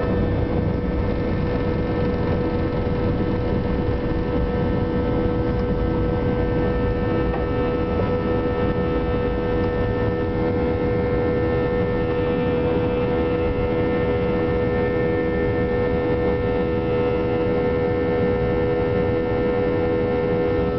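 Airbus A320 cabin noise with the jet engines running steadily: an even roar of engine and airflow carrying a steady hum of several held tones.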